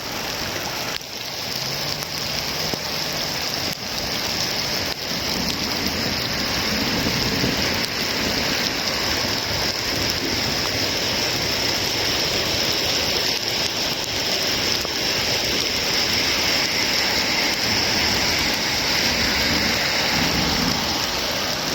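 Heavy rain pouring down steadily in a thunderstorm, picking up a little over the first several seconds and then holding.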